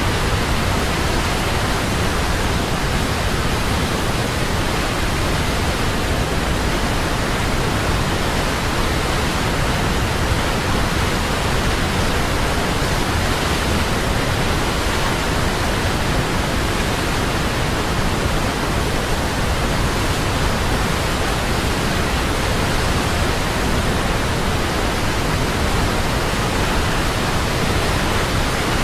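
Large waterfall roaring steadily: an even rush of falling water, unchanging throughout.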